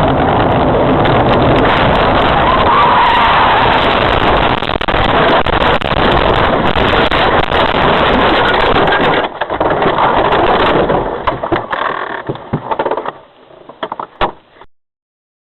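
Road and engine noise of a moving car heard from inside the cabin, with scattered knocks and rattles. It dips briefly about nine seconds in, fades out over the last few seconds and cuts off shortly before the end.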